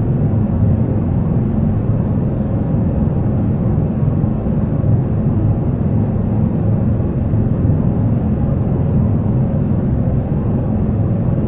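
Jet airliner in flight: a steady, unchanging low rumble of engine and airflow noise.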